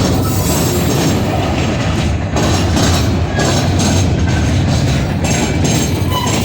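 Train cars rolling past close by with a loud, steady rumble and clatter of wheels on the rails.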